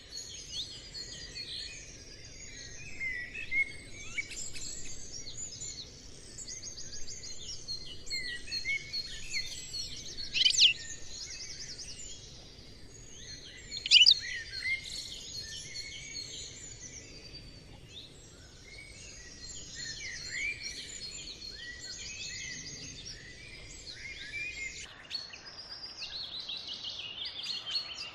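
Many small birds chirping and twittering at once, a dense overlapping chorus of short calls and trills, with two louder sharp calls partway through.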